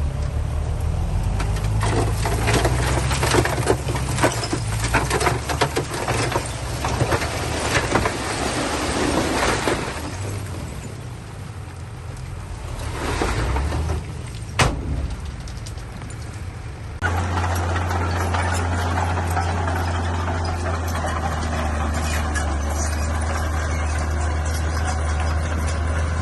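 Crawler bulldozer working: its diesel engine runs under load beneath a dense clatter and scraping of tracks and pushed stone, with one sharp knock a little past halfway. About two-thirds of the way in the sound changes abruptly to a steady low engine drone.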